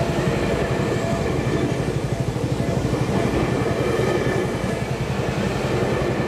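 Electric commuter train passing close by at speed: a loud, steady run of wheels rumbling over the rails.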